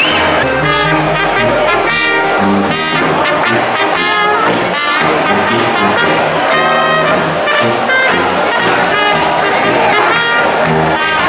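Brass band playing music, with trombone and trumpet prominent.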